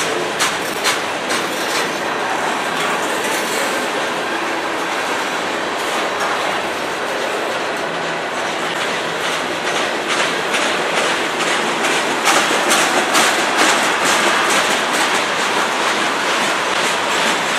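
Freight cars of a CN freight train rolling past: steady wheel-on-rail rumble with the clickety-clack of wheels over rail joints, the clicks coming thicker and a little louder in the second half.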